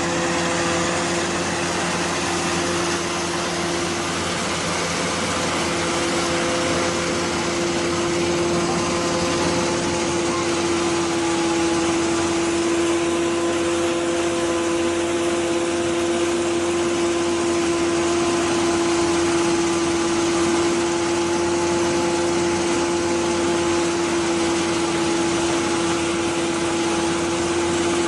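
Large corn threshing and shelling machine running under its engine drive, a steady mechanical noise with a constant whine held at one pitch.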